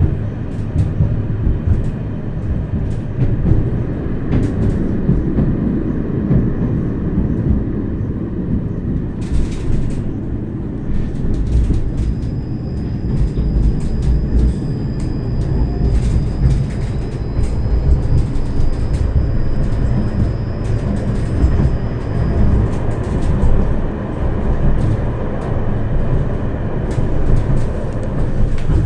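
Tram running along its route, heard from inside the passenger car: a steady rumble of wheels on rail with a few clicks. A thin high whine comes in about twelve seconds in and lasts around ten seconds.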